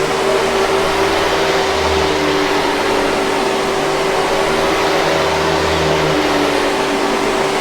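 Hoover 5000 Series canister vacuum cleaner running steadily: a constant motor hum over an even rush of airflow noise.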